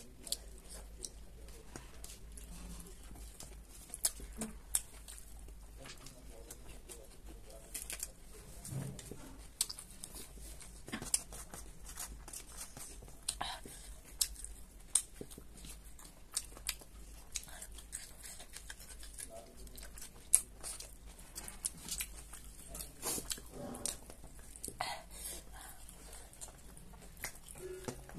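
Close-up mouth sounds of a person chewing and crunching a crisp shredded raw vegetable salad (Manipuri singju), with irregular crackles and wet chewing, and a few sharper crunches.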